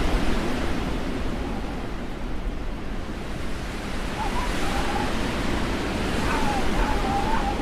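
Blizzard wind blowing as a steady rushing noise that swells and eases, with a faint whistling howl sliding up and down in pitch about four seconds in and again near the end.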